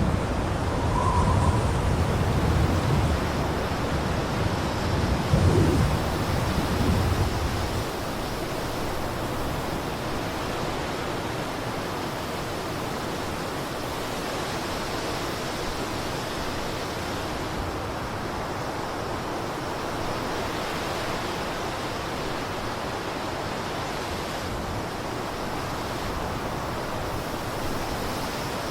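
Blizzard wind: deep, uneven rumbling gusts for the first several seconds, then from about eight seconds in a steady, even hiss.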